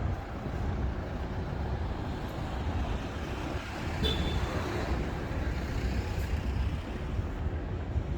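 Road traffic on a city street: a steady rumble of passing motor vehicles, with a brief high tone about four seconds in.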